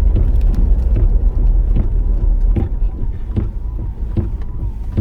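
Car driving: a steady low road rumble, with short clicks repeating a little faster than once a second.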